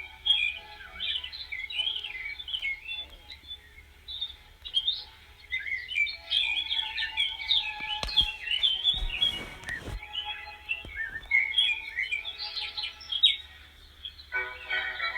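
Small birds chirping and twittering rapidly and continuously, with a brief rustle of noise partway through. Music comes in near the end.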